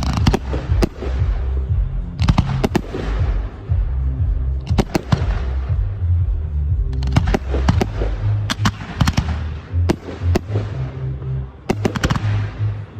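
Display fireworks going off in quick salvos: clusters of sharp bangs every second or two, each followed by a crackling, fizzing tail. Music with a low beat plays underneath.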